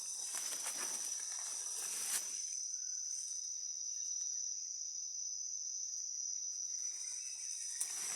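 A steady, high-pitched drone of rainforest insects. Footsteps rustle through leaf litter for the first two seconds or so and again near the end.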